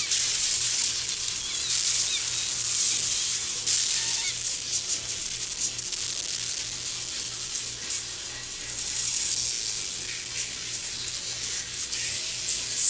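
Steady high hissing noise with scattered faint clicks, from the anime's soundtrack.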